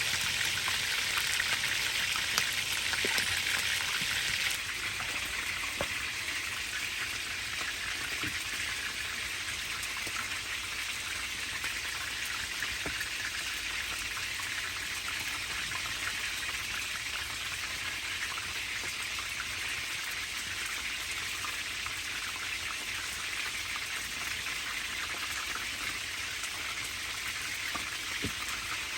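Steady rain falling, a hiss of many small drops with scattered individual patters. It steps down a little in level about four and a half seconds in.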